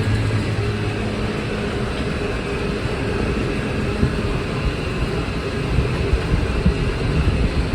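McCormick MTX 150 tractor engine running steadily, with irregular low thumps in the second half.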